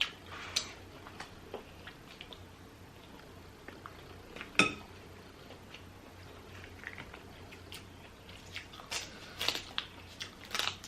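Eating a seafood boil by hand: faint, scattered clicks and cracks of shellfish shells being broken and picked apart, with some chewing. One sharper crack comes midway, and a quicker run of clicks near the end.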